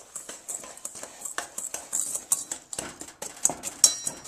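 A spoon stirring a dry powder mix of borax, washing soda and salt in a bowl: irregular scraping and clinking, with one brief ringing clink near the end.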